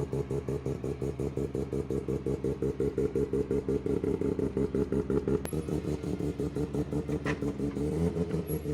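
A car engine idling with a lumpy, evenly pulsing beat, several pulses a second. A short click comes about five and a half seconds in.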